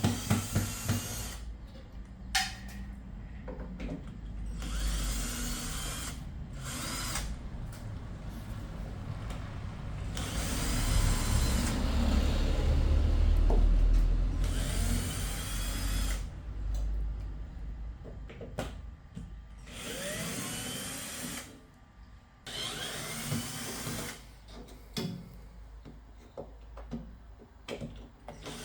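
Small handheld electric drill-driver running in repeated bursts of a few seconds with short pauses between, its motor pitch sliding up and down as it speeds and slows.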